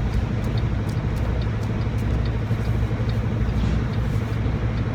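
Semi truck's diesel engine running steadily at low revs while the truck is maneuvered at a loading dock, with a faint light ticking about twice a second.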